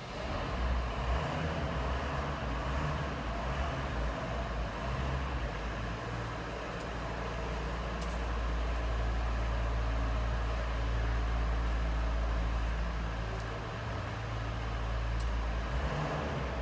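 A motor vehicle's engine running steadily with a low rumble, with a few faint clicks.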